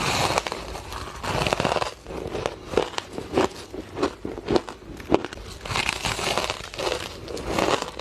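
Close-up crunching of powdery white ice being bitten and chewed, in a run of crisp crunches and crackles.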